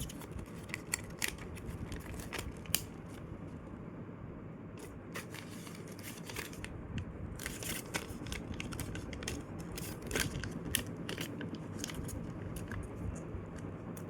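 Paper being folded and creased by hand: irregular crinkles and short sharp rustles as the sheet is bent and pressed flat, over a steady low hum.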